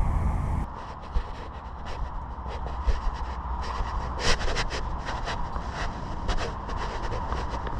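Irregular scuffing and scraping strokes over a steady low rumble, after a louder low rumble cuts off abruptly less than a second in.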